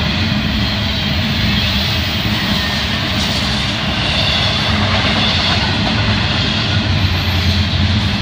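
Intermodal freight train's double-stack well cars rolling past: a loud, steady rumble of steel wheels on the rails.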